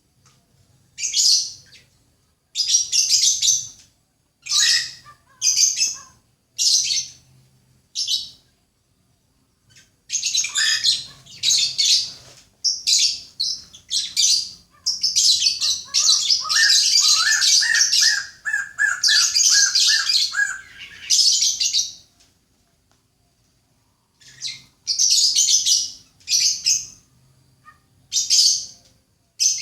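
Songbird song: short bursts of high chirps separated by pauses, with a long dense stretch of song in the middle that carries a lower, rapid trill, then a brief pause and more short chirping phrases.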